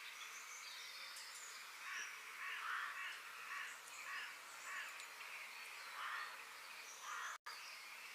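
Outdoor ambience with birds calling over a steady hiss: a run of harsh, repeated calls from about two seconds in, with a few thin, high chirps. The sound cuts out completely for a moment near the end.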